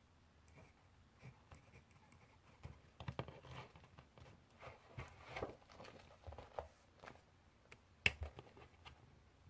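Handwriting with a pen or pencil on paper: irregular scratchy strokes through the middle, then a single sharp click about eight seconds in.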